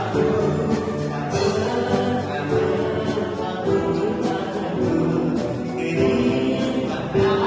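School wind orchestra playing a song arrangement, with held chords and notes that change every second or so.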